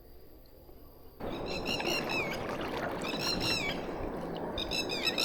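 A bird calling in three quick runs of short gliding chirps. About a second in, a steady rushing noise starts suddenly underneath them.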